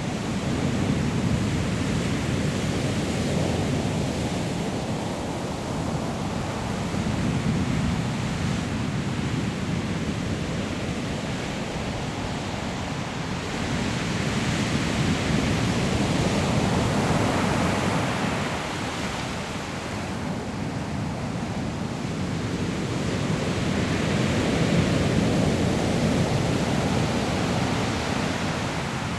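Sea waves breaking on a pebble shore: a steady rushing surf that swells and falls back in four slow surges, several seconds apart.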